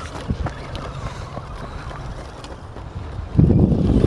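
Low rumble of wind buffeting the microphone, becoming much louder about three and a half seconds in.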